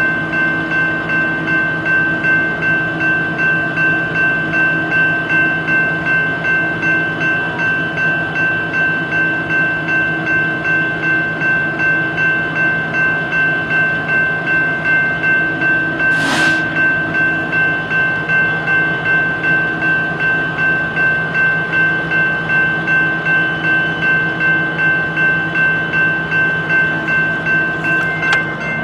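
Railroad crossing bell ringing steadily, about two strokes a second, as a train waits to move. A brief hiss cuts through about halfway.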